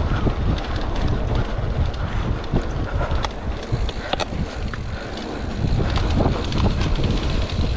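Wind buffeting the microphone over the clatter of a mountain bike riding down a wet dirt trail, with many short clicks and knocks from the bike as it goes over bumps.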